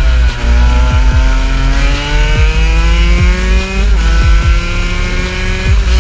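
KTM 125 two-stroke enduro engine pulling hard under acceleration. Its pitch climbs steadily through a gear and drops sharply at a gear change about four seconds in, then climbs again. Music is underneath.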